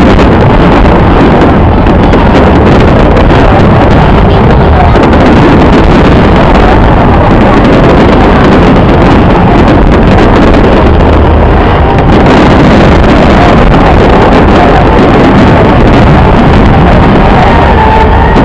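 Dense fireworks barrage, so loud that the microphone is overloaded: a continuous distorted rumble of bursts with no break.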